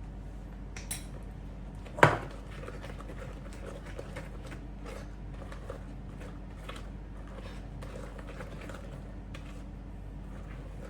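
Kitchen dishes and utensils being handled: one sharp knock about two seconds in, then a run of light, irregular clicks and taps over a low steady hum.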